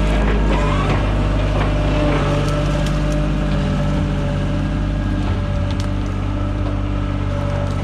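Loader's engine running steadily under work, with scattered cracks and scrapes as the bucket digs into soil.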